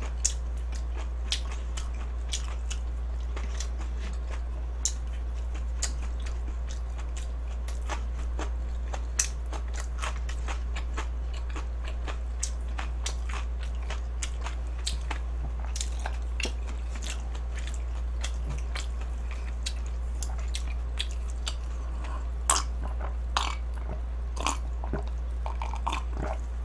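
A person chewing food, with many short wet mouth clicks and smacks, over a steady low hum.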